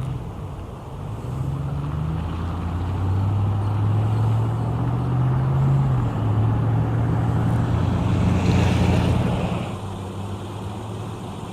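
A motor vehicle's engine running, its pitch shifting up and down, growing louder through the middle and dropping away about ten seconds in.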